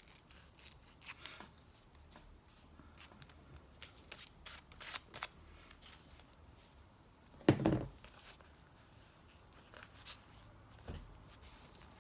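Scissors snipping through magazine paper in a series of short, irregular cuts, with one louder dull thump about seven and a half seconds in.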